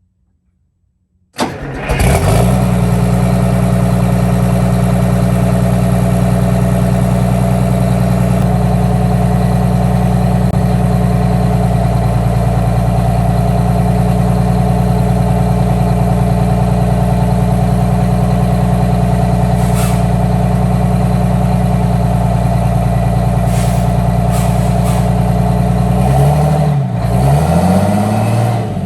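Detroit Diesel 6V92TA two-stroke turbocharged V6 diesel in a GM 4106 coach, freshly refilled with oil, starting about a second and a half in and catching at once, then idling steadily. Near the end the engine speed dips and rises a couple of times.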